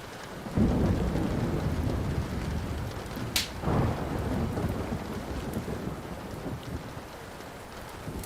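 Thunder rumbling over steady rain: a low rumble breaks in suddenly about half a second in, a sharp crack comes about three seconds in, and more rumble follows and slowly fades. Faint crackles of a wood fire pop now and then.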